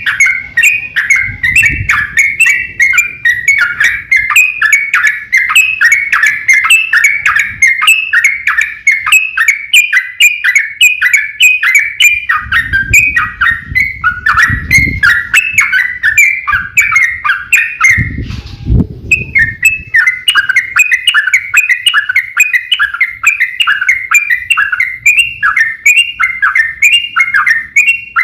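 Yellow-vented bulbul (trucukan) singing fast, with one chattering note after another, several a second, the rolling 'ropel' style. About eighteen seconds in, the song breaks off briefly over a couple of low thumps.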